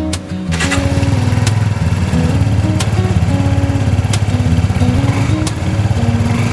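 Small motorbike engine running steadily, louder from about half a second in.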